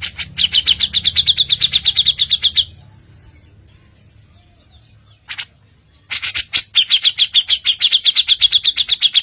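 A songbird singing two loud phrases, each opening with a few sharp clicks and running into a fast, even trill of about a dozen notes a second, the second phrase starting about six seconds in.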